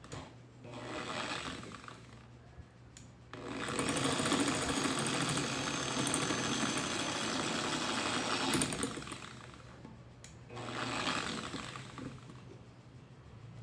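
Mini drill press motor running in three bursts: a short one about a second in, a long one of about five seconds in the middle, and another short one near the end.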